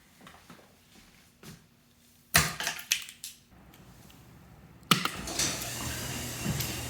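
A few sharp clicks and knocks, then about five seconds in a Subaru WRX's turbocharged flat-four engine starts from cold with a sudden burst and settles into a steady fast idle.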